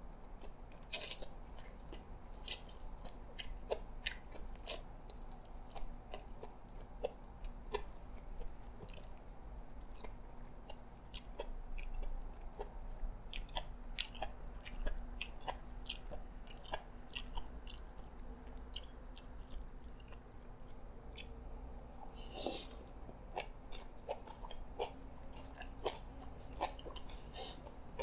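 Close-miked chewing of a mouthful of yee sang salad, with many small crunches and wet mouth clicks, and a short breath about three-quarters of the way through.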